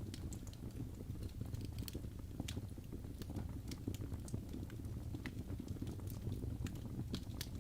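Wood fire in a fireplace burning, with irregular sharp crackles and pops from the logs over a steady low rumble of the flames.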